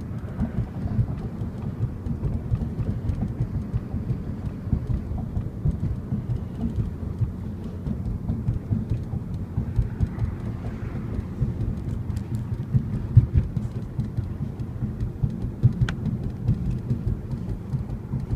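Volkswagen Golf R (Mk6) sunroof in the tilted position making a rapid, irregular clicking over a steady low rumble inside the car, with a sharper click about sixteen seconds in. The clicking is a fault the owner calls a horrible noise.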